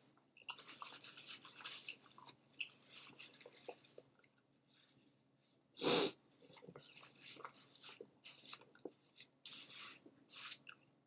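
Faint chewing of a cheeseburger, with small clicks and rustles from handling its paper wrapper, and one louder short noise about six seconds in.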